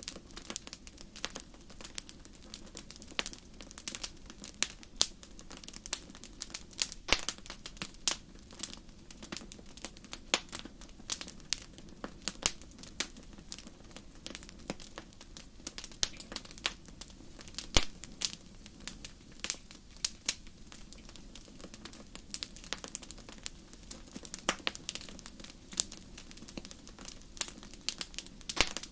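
Wood fire burning in a fireplace: irregular sharp crackles and pops, several a second, over a low steady hiss.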